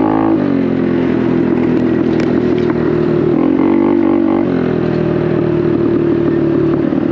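Honda Navi's small single-cylinder four-stroke engine running through a Vance & Hines aftermarket exhaust while riding, the note steady apart from a brief dip in pitch around the middle as the throttle eases and comes back on.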